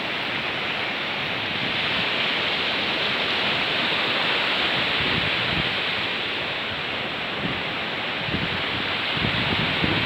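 Steady rush of water from a small waterfall and stream pouring into the sea, with low rumbles coming and going in the second half.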